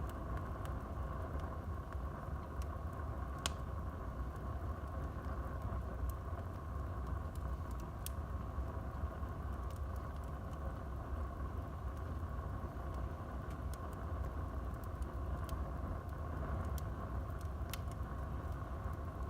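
Wood fire burning in a fireplace: a steady low rush of flames with sharp crackles and pops every few seconds, the clearest about three and eight seconds in.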